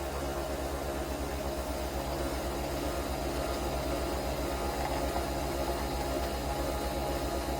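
Nespresso Vertuo Next capsule machine brewing a coffee: a steady mechanical hum from its pump and spinning capsule, with a fast, even low pulsing.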